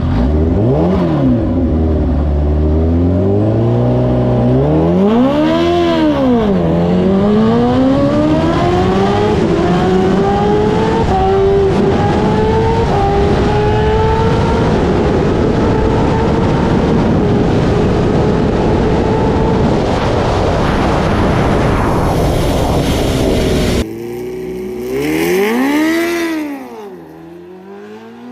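Kawasaki Ninja H2R's supercharged inline-four engine revved twice, then pulling hard through the gears in long rising sweeps, each upshift a short dip in pitch. Near the end the sound drops suddenly, rises and falls once more, and fades.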